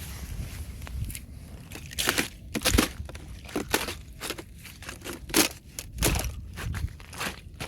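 Fresh thin ice cracking and crunching in a string of irregular sharp snaps, the loudest about three and five and a half seconds in.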